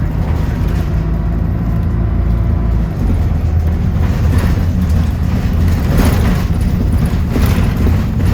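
Bus engine and road noise heard from on board: a steady low drone that grows louder about three seconds in as the bus pulls harder, with a couple of short rattling knocks near the end.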